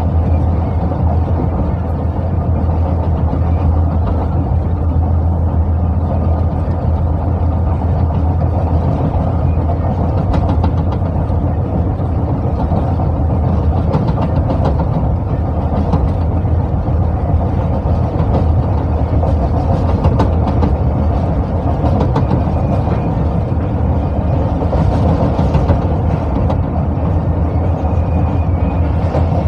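Passenger train running at speed, heard from an open window of the coach: a steady low rumble of wheels on rails with fine rattling and clatter, and no pauses.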